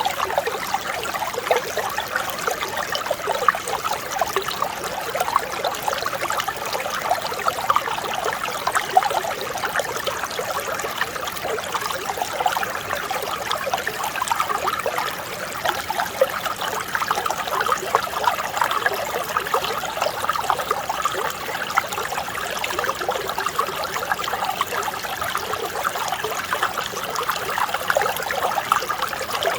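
Clear mountain stream flowing and trickling over rocks, a steady babble of small splashes.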